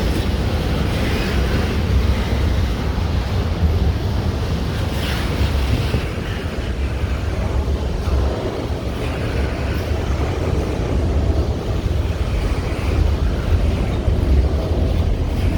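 Train rolling past, a steady low rumble, with wind buffeting the microphone.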